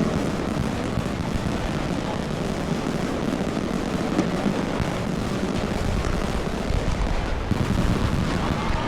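Fireworks display heard as a steady low rumble, many bursts running together with no single bang standing out.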